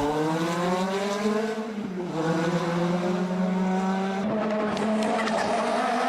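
Rally car engine running hard: it revs up over the first second or so, drops sharply in pitch about two seconds in, then holds a fairly steady note.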